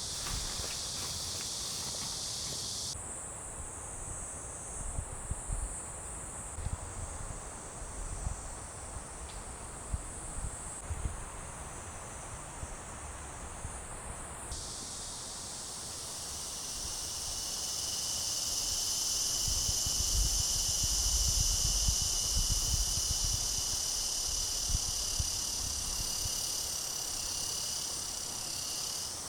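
A steady, high-pitched chorus of summer insects, its pitch shifting abruptly about three seconds in and again about halfway through, with a few light knocks underneath.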